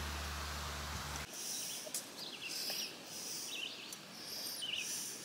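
Birds chirping with short, repeated calls, after steady background music cuts off abruptly a little over a second in.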